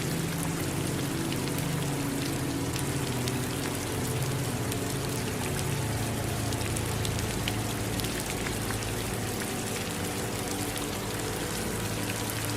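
Steady rain falling, an even hiss dotted with many individual drops ticking.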